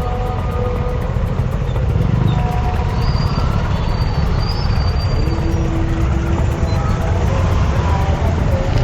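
Road traffic noise on a city motorcycle ride: a steady low rumble of engine, tyres and wind, with a few short steady tones cutting in now and then.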